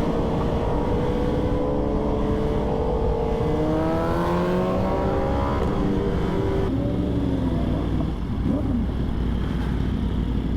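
Sport-bike engines running at speed in a group ride, one engine's pitch rising steadily as it accelerates for a couple of seconds before dropping back and wavering lower. Wind rumbles on the microphone throughout.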